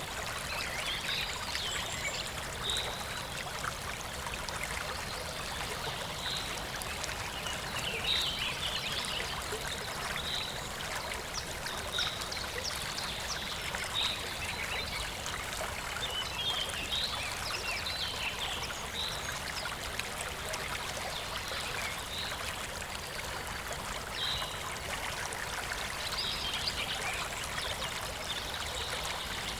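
Shallow stream babbling steadily over stones, with short high-pitched plinks or chirps every couple of seconds above the flow.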